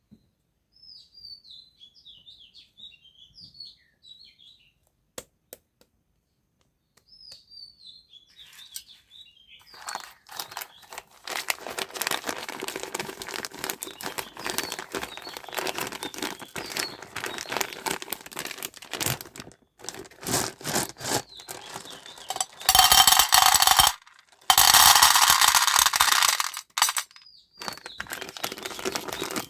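Faint high chirping at first. Then a long stretch of dense crackling and crunching, which fits things being crushed under a car tyre, with two loud rushing bursts of noise near the end.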